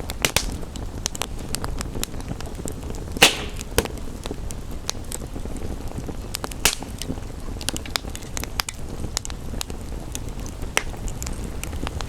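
Wood fire crackling with frequent small snaps and two louder pops, about three seconds and six and a half seconds in, over a steady even hiss of rain.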